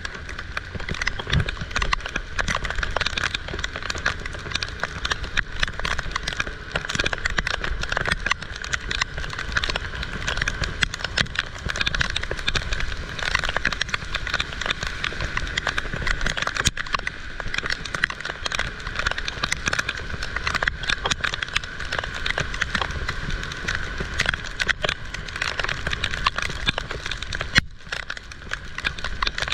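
Heavy rain falling, a dense, steady patter of drops striking close by, with a brief lull near the end.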